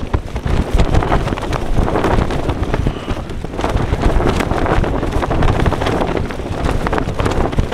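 Gale-force wind battering a Lanshan 2 tent: the fabric slaps and cracks again and again over a heavy, constant rumble of wind on the microphone.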